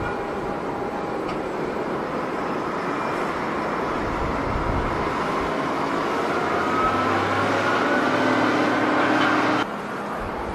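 Jet airliner engines, a steady roar that grows louder with a rising whine over the last few seconds, then cuts off suddenly near the end.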